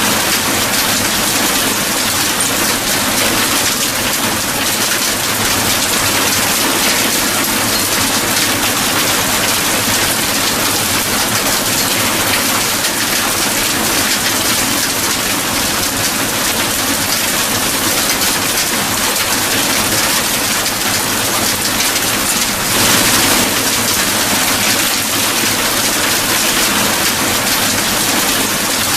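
Steady rain, a dense even hiss of falling drops, swelling briefly a little past two-thirds of the way through.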